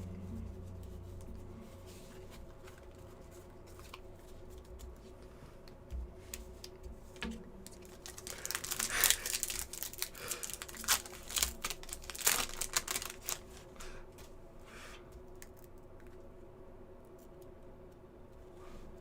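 Trading cards and foil pack wrappers being handled: clicks, flicks and crinkling, busiest in a flurry in the middle, over a low steady hum.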